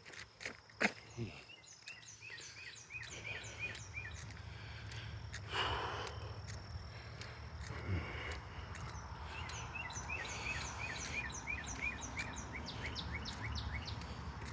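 Songbirds singing: runs of quick, evenly repeated chirping notes, twice, over a low steady rumble. Footstep clicks come near the start.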